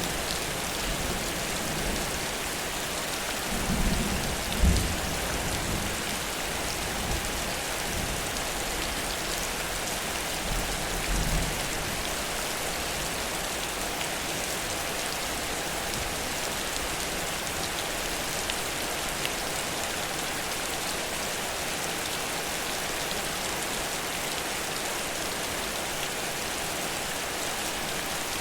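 Heavy rain falling steadily in a dense hiss. Low rumbles of thunder swell about four seconds in and again about eleven seconds in.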